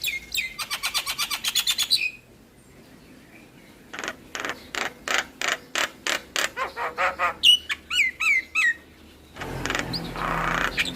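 Javan myna singing: falling whistles and a fast chattering rattle, a pause of about two seconds, then a run of sharp repeated notes and falling whistles, ending with a long hoarse call near the end.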